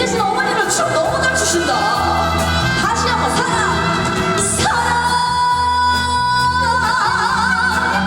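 A woman singing a Korean trot song live over band accompaniment with a steady bass line, holding a long note with vibrato near the end.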